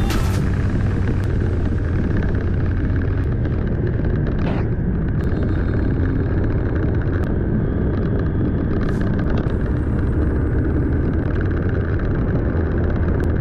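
Motorcycle on the move at a steady speed: a continuous low engine drone under heavy wind rush on the microphone, with a few faint clicks.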